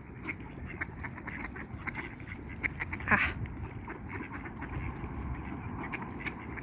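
Duck dabbling and feeding at the water's edge: a steady run of short, irregular clicks from its bill, with soft duck calls.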